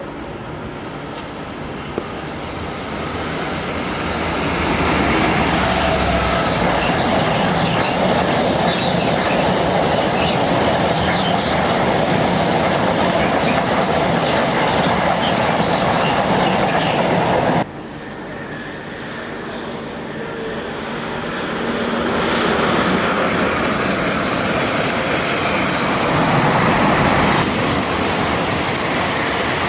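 Trains passing on the line: the noise of wheels running on rails builds over the first few seconds and holds steady. It breaks off abruptly about 18 seconds in, and another train's passing noise builds up again.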